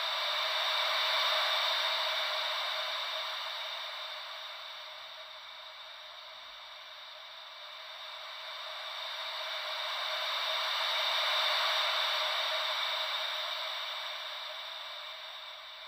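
Ocean-wave white noise: a steady hiss with no deep rumble that slowly swells and ebbs like waves, rising to a peak about a second in and again about twelve seconds in.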